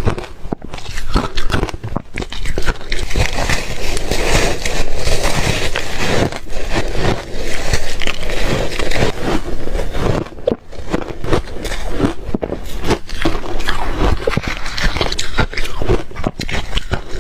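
Close-up crunching and chewing of reshaved refrigerator ice, a dense run of crackling bites with a short pause about ten and a half seconds in.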